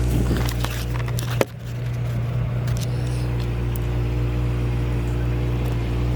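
Small petrol engine idling steadily after a spark plug and filter change, with a few light clicks in the first second and one sharp click at about a second and a half.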